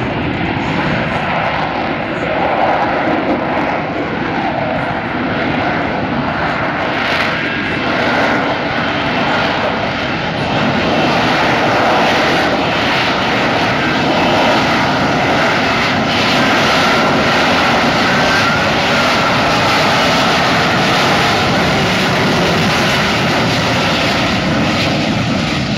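F-35B's Pratt & Whitney F135 jet engine running loudly and steadily, a dense rushing noise with a faint high whine, growing a little louder about ten seconds in.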